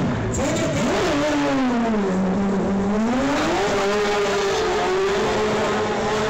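Shortcar racing car's engine revving hard, its pitch dropping about two seconds in, then climbing and held high and steady from about four seconds in as the car spins its wheels in a cloud of tyre smoke.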